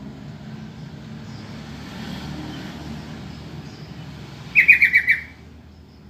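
Sooty-headed bulbul (trucukan) calling: about four and a half seconds in, a loud quick run of about six short falling notes, over a steady low background noise.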